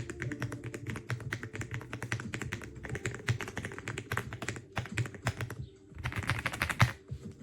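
Typing at speed on an EPOMAKER x Aula F75 gasket-mount mechanical keyboard with Ice Vein switches: a fast, steady stream of keystrokes, a short pause about six seconds in, then a dense flurry of keys.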